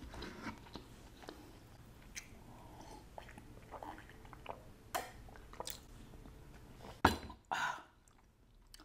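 Quiet close-up mouth sounds of chewing a mouthful of fish and vegetables, with small wet clicks, and sipping from a ceramic mug. A sharp knock comes about seven seconds in, as the mug is set back down on the table.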